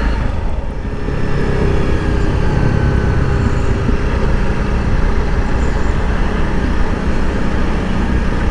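Motorcycle engine running while riding, its pitch rising and falling a little with speed, under steady wind and road noise on the rider's microphone.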